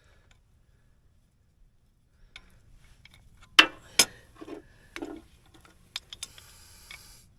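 Hands-on handling clatter: a string of sharp clicks and knocks, the loudest two about three and a half and four seconds in, followed by a short hissing rasp near the end.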